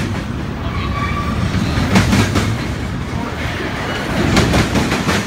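Double-stack freight train cars rolling past with a steady rumble. Clusters of wheel clacks over rail joints come about two seconds in and again just past four seconds.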